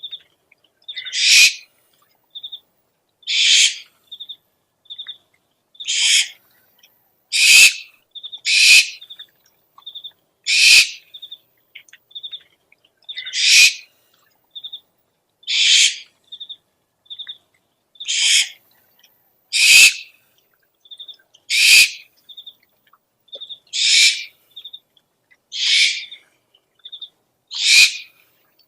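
Owl calls from a lure recording: a harsh, hissing screech repeated about every two seconds, with short high chirps, often in pairs, between the screeches.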